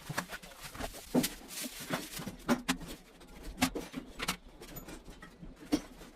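Irregular sharp knocks and clicks of hard plastic pipe and fittings being handled, about a dozen, the loudest a little over one, two and a half, three and a half and four seconds in.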